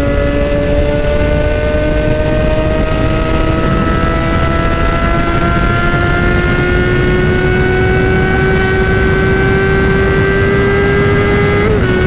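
Yamaha YZF-R6's inline-four engine pulling at highway speed, its pitch climbing slowly and steadily, with a brief blip and dip in pitch near the end. Wind rushes over the camera underneath.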